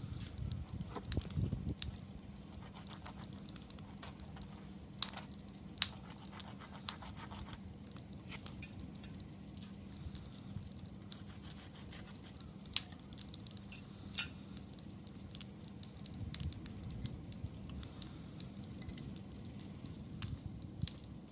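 Wood fire crackling, with scattered sharp pops a few seconds apart over a low, steady rush.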